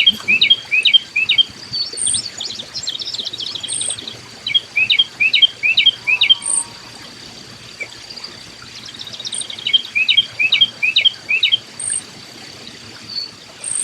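A songbird singing runs of quick, repeated chirped notes, three runs of about two seconds each, over a steady high insect drone, with a short, very high peep every couple of seconds.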